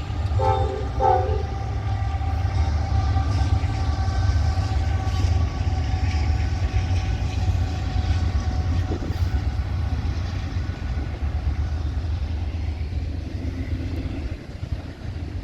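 Norfolk Southern freight train rolling past with a steady heavy rumble of cars on the rails, with two short horn notes about half a second and a second in.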